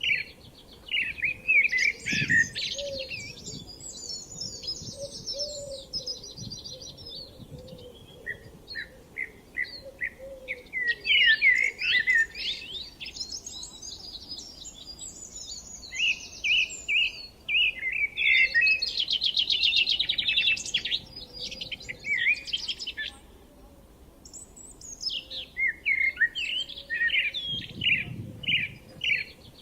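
Songbirds singing in a spring countryside chorus: overlapping runs of quick chirps and trills, with a couple of short lulls.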